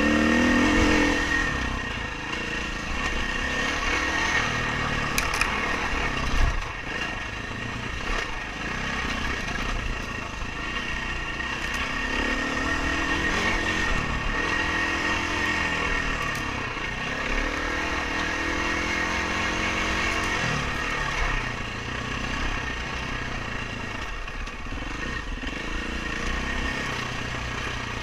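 Dirt bike engine revving up and down repeatedly as it is ridden, its pitch rising and falling every few seconds over steady noise.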